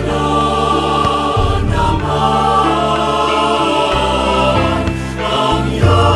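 Choir singing a Marian hymn, sustained voices over low accompanying notes that change every second or so.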